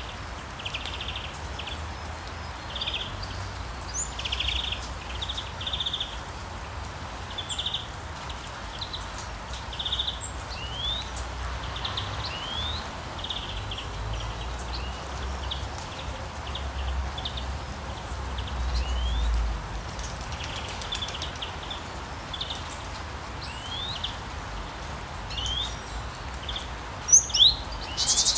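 Birds chirping and calling repeatedly over a steady hiss and a low rumble, with a few louder, sharper calls near the end.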